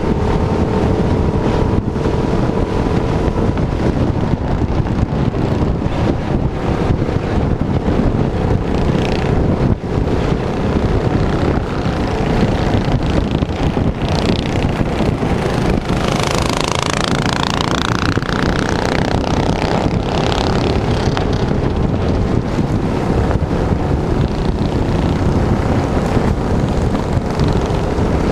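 Small minibike engine running under way, with heavy wind noise buffeting the microphone; an engine pitch sweeps down and back up about two-thirds of the way through.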